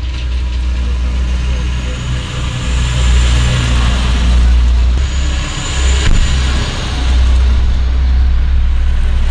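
Heavy trucks going by: a steady deep engine rumble with road noise that swells twice, about three to four seconds in and again about six seconds in.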